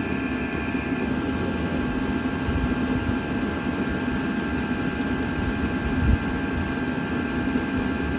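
VEVOR 8 kW all-in-one diesel air heater running as it ramps back up: a steady whir of its blower fan and burner with a constant hum. A single low thump about six seconds in.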